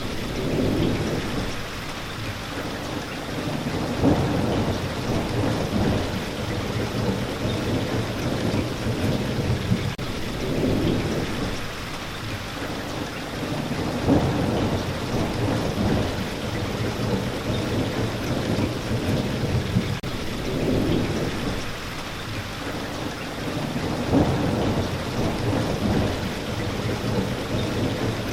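Steady rain falling, with low rumbles of thunder that swell and fade every few seconds.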